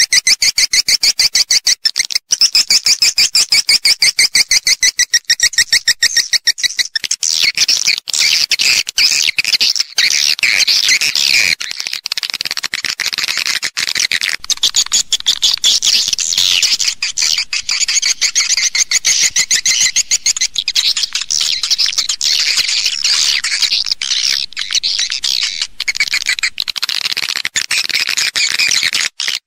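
Recorded swiftlet calls used as a lure sound for swiftlet houses: a rapid, even train of high chirps, joined about seven seconds in by dense, overlapping twittering.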